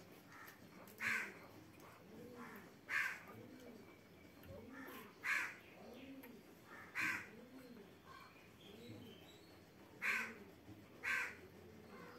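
A bird cawing six times at irregular intervals, each call short and harsh.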